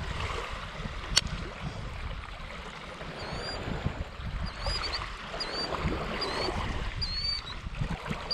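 Wind buffeting the microphone with a low rumble, a single sharp click about a second in, and then a bird giving short, high chirps over and over, roughly one or two a second.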